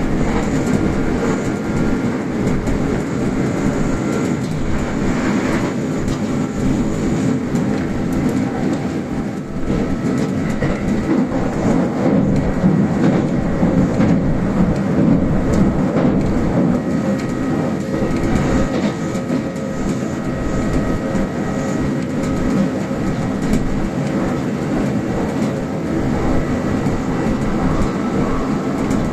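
Kintetsu express electric train running on standard-gauge track, heard from inside the leading car: a steady rumble of wheels on rail, with faint steady whining tones above it.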